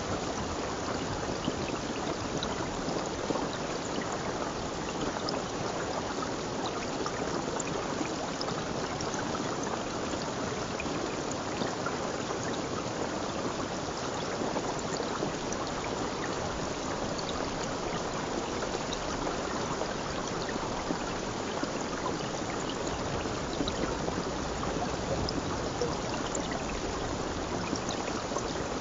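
Stream of water flowing steadily, a continuous even rush with faint scattered splashy ticks.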